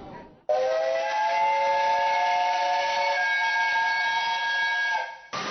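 Steam locomotive whistle of the SL Hitoyoshi, a JNR Class 8620 (No. 58654), sounding one long blast of several tones at once. It starts abruptly about half a second in and cuts off near the end.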